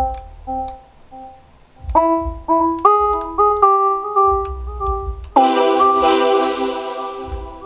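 Beat playback from music-production software: an electric-piano-like keyboard sound plays a short melody of single notes stepping upward over a chord loop, with a low bass pulse underneath. About five seconds in, a fuller, brighter chord comes in.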